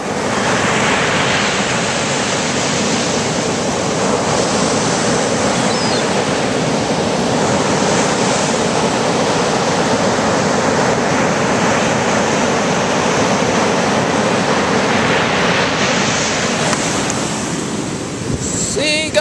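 Ocean surf breaking and washing on a beach: a steady rushing noise that swells now and then as waves come in.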